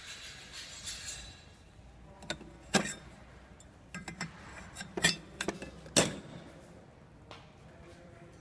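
Automatic popcorn packing machine at work: a hiss for the first second and a half, then a series of irregular sharp clacks and knocks, loudest about a third and two-thirds of the way through.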